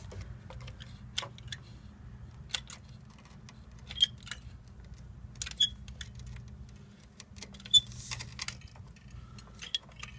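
Manual caulk gun being worked, its trigger and plunger giving sharp metallic clicks a second or two apart, over a steady low hum.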